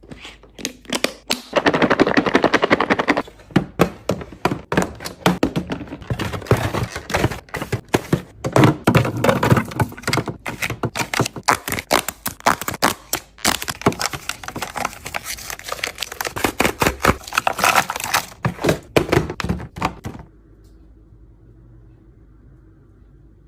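Rapid clicking, clattering and rustling of plastic packaging and containers being handled and set down while restocking a fridge, in a dense run of knocks that stops suddenly about twenty seconds in. A faint low steady hum remains.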